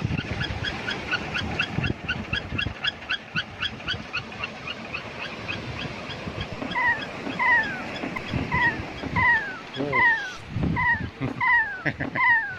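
An animal calling: a fast run of short high pips, then from about halfway through a series of falling calls repeated about one and a half times a second.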